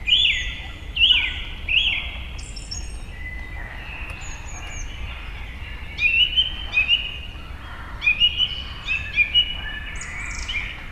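Several birds calling. Three loud, downward-sliding calls come in the first two seconds, then quick runs of short chirps about six and eight seconds in, over a steady low background rumble.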